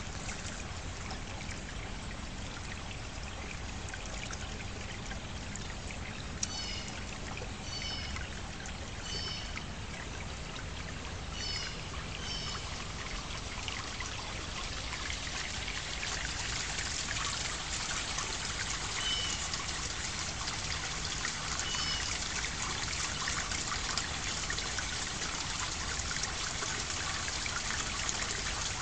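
Water trickling steadily, getting a little louder about halfway through. A few short high chirps come through, in a cluster between about six and thirteen seconds in and twice more later.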